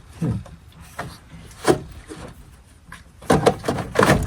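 Irregular rubbing, scraping and knocking as a part is worked loose in the engine bay of a 2003 Ford F-250 during radiator removal. There is a cluster of louder knocks and scrapes near the end.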